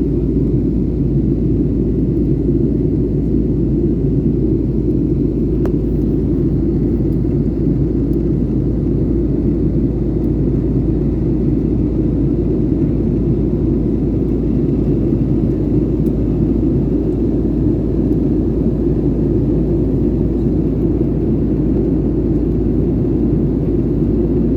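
Airliner in flight after take-off: steady low rumble of jet engines and airflow, heard from inside the cabin, with no change in pitch or level.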